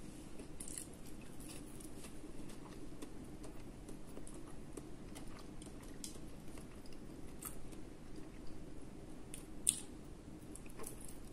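Soft chewing and small wet mouth clicks of a person eating a meatball, with one sharper click near the end.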